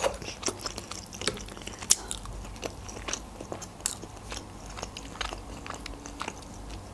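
A person chewing a mouthful of tender rotisserie chicken with the mouth closed: soft, irregular wet mouth clicks.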